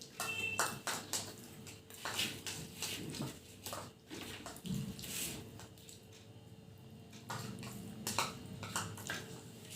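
Someone eating luchi and dal by hand: a string of irregular short, noisy sounds.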